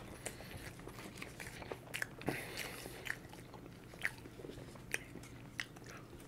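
A person chewing a mouthful of food close to the microphone: quiet, with scattered short mouth clicks and smacks every second or so.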